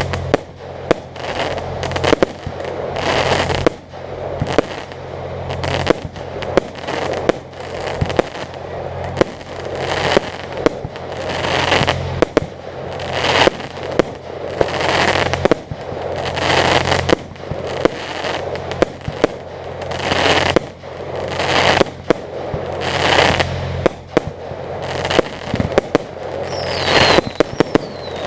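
Fireworks display: aerial shells bursting one after another, about every second or two, with crackling after the bursts and a couple of falling whistles near the end. A steady low hum runs underneath.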